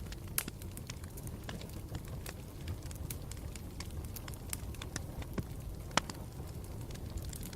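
Campfire burning with a steady low rush and irregular sharp crackles and pops, the loudest pops about half a second and six seconds in.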